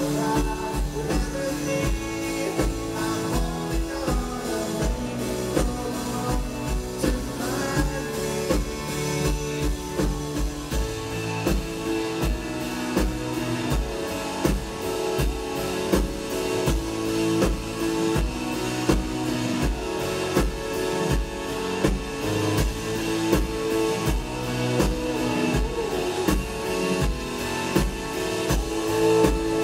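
Live rock band playing: a drum kit keeps a steady beat under strummed guitars and sustained chords.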